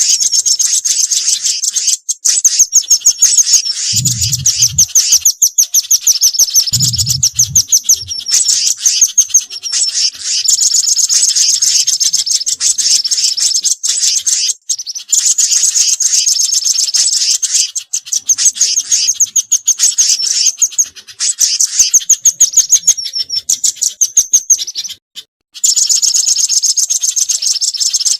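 A bird-lure recording of mixed garden-bird calls, mainly the velvet-fronted nuthatch combined with spiderhunter calls: fast, high, repeated chirping trills that go on almost without pause and break off briefly twice. There are two short low thuds near the start.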